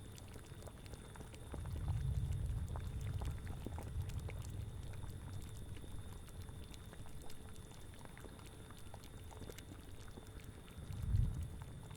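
Bubbling cauldron, a steady stream of small pops and plops from liquid at the boil. Low gusts of wind swell up about two seconds in and again near the end.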